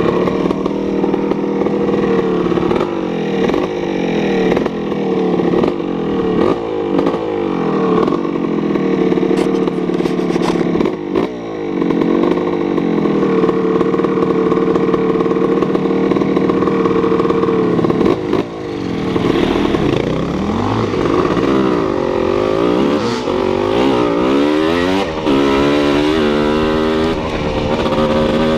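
A vehicle engine running loud, its pitch rising and falling again and again as it revs up and eases off, with a few knocks and clatters.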